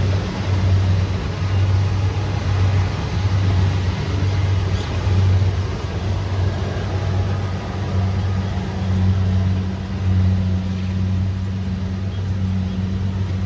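Kubota DC70 Pro rice combine harvester running under load, its diesel engine giving a steady low drone over the clatter of the machine, the loudness rising and falling a little.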